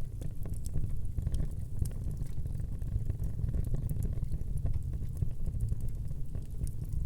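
Wood fire burning in a fireplace: a steady low rumble of flame with frequent small, sharp crackles and pops scattered irregularly throughout.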